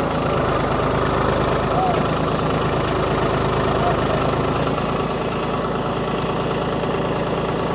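Mahindra tractor's diesel engine running steadily with a regular chugging beat.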